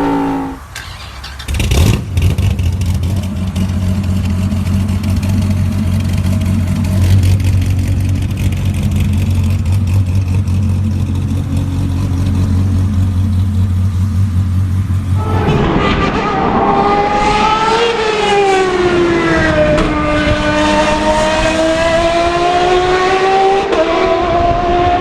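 V10 car engine idling steadily with a low, even note after a sharp click near the start. About fifteen seconds in it switches abruptly to running at high revs, its pitch climbing, dropping and climbing again as the revs change.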